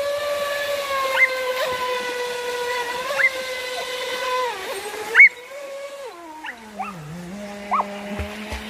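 Feilun FT011 RC speedboat's brushless motor whining steadily at low throttle. About six seconds in the pitch drops lower as the throttle is eased off. A few short high chirps sound over it.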